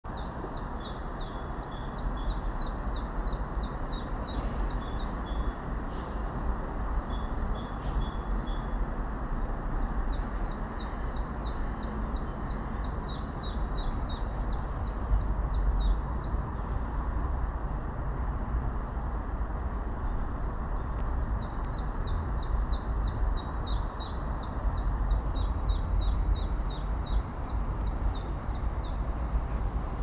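Small songbirds singing in long, rapid runs of short high chirps that repeat throughout, over a steady low rumbling background noise.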